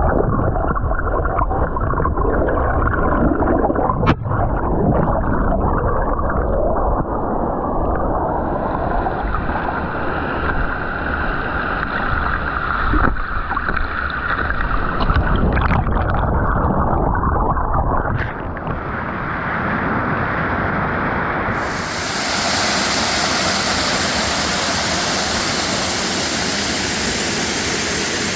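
Bozugataki waterfall rushing: a loud, steady noise of falling water, with a heavy low rumble through the first two-thirds.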